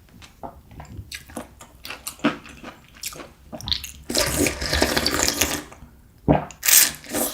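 Close-miked eating sounds of doenjang kalguksu, a noodle soup: small wet mouth clicks, then a long slurp about halfway through and a short, sharp slurp near the end.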